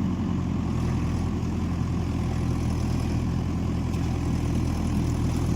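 Tractor diesel engine running at a steady speed.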